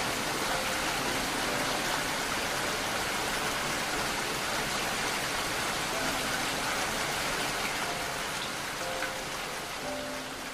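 Steady rain falling, a dense, even hiss of countless drops with no single drop standing out.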